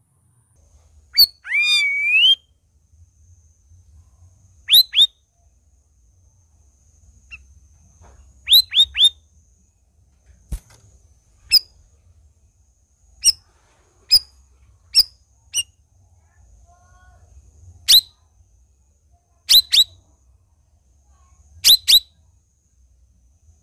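Cucak rawis songbird calling: a short whistled phrase that dips and rises about a second in, then sharp high chirps, singly and in quick runs of two or three, every second or two.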